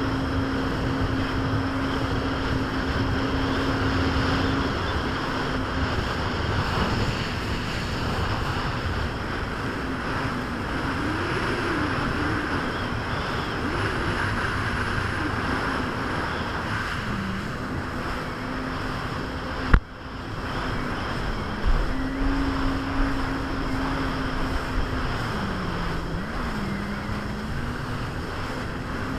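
Jet ski engine running steadily over water rush and wind noise, its pitch dipping several times as the throttle eases and picks up again. A single sharp knock comes about two-thirds of the way through.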